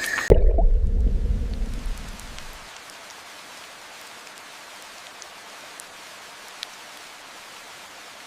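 A sudden deep rumble starts just after the beginning and fades over about two seconds. After it comes a steady hiss like falling rain, with a few faint drip-like ticks.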